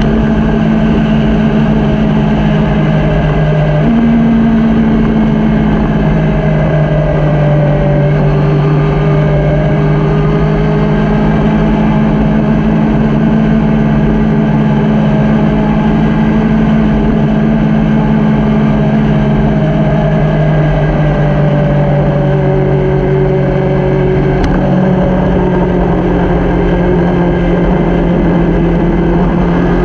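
Motorcycle engine running steadily under way, its pitch drifting slowly up and down with small changes in speed, over a constant low rumble.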